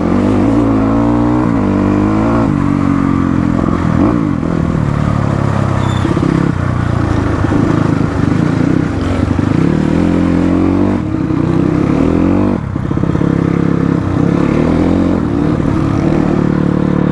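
Motorcycle engine running under constantly changing throttle, its pitch rising and falling over and over as it is ridden over rough off-road ground.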